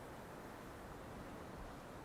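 Faint, steady rushing of snowstorm wind, with no chimes or other distinct sounds in it.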